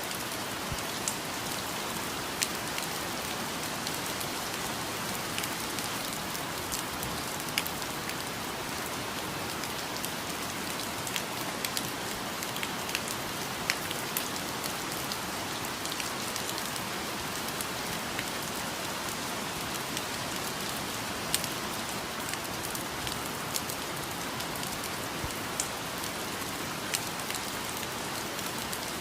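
Steady rainfall, an even hiss with individual drops ticking sharply and irregularly on leaves and surfaces.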